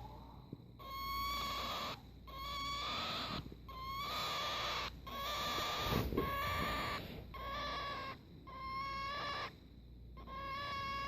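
Cockatiel giving a string of about eight steady-pitched calls, each about a second long with short breaks between them. It is the strange noise she makes now and then when held.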